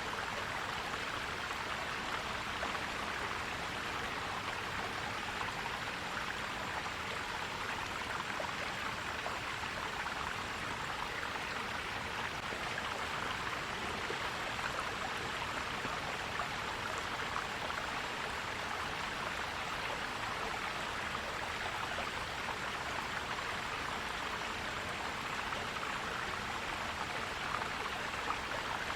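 A forest stream flowing and gurgling steadily over rocks.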